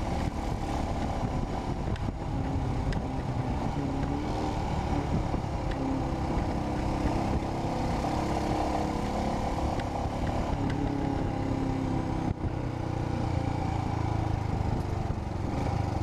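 Royal Enfield Himalayan's 411 cc single-cylinder engine running under way through a Red Rooster aftermarket exhaust, its note rising and falling with the throttle. There is a brief dip in level about twelve seconds in.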